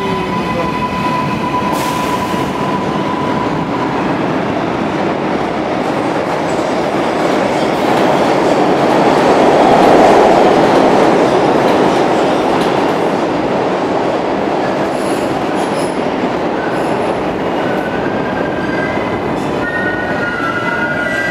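NYC subway trains on the Lexington Avenue line running through the tunnel: a loud, steady rumble of wheels on rail that swells to its loudest about halfway as the 5 express passes the 6 local. A thin steady whine sounds for the first few seconds, and several high tones come in near the end.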